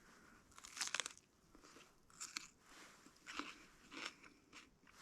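A person chewing and crunching mouthfuls of cold raw red bell pepper, several faint, crisp crunches a second or so apart.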